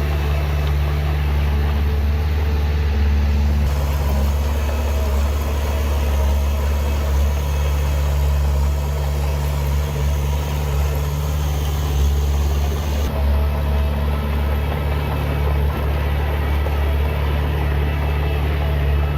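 Heavy diesel engine of earthmoving machinery running steadily with a deep, continuous hum. An added higher hiss lies over it from about four seconds in until about thirteen seconds.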